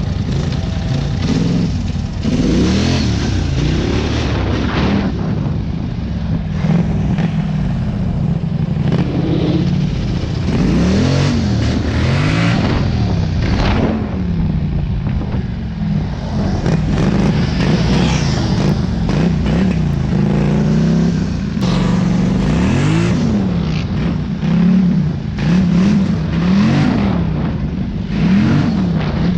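Off-road vehicle engine being ridden hard, its revs rising and falling over and over as the throttle is opened and closed.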